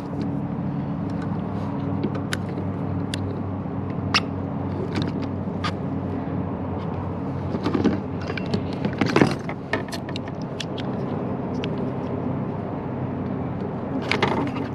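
A steady engine hum, with scattered sharp clicks and knocks over it, the loudest knock about nine seconds in.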